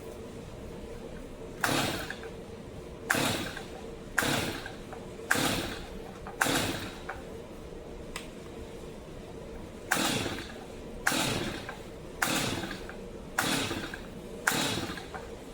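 Recoil starter of a Stihl MS 250 two-stroke chainsaw pulled ten times, in two runs of five about a second apart, each pull a short rasp that fades quickly. The engine does not fire even once at half choke with a new spark plug fitted: a no-start fault.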